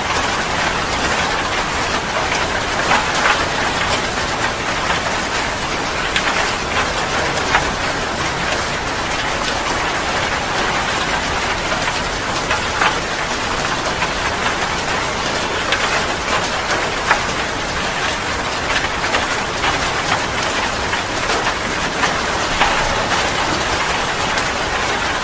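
Heavy rain falling steadily: a dense, even hiss of rain with many separate drop splashes on a hard surface.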